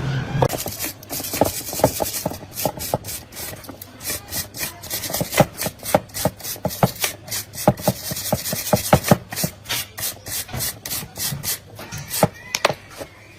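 Repeated rasping strokes of a hand tool working a part, about three strokes a second.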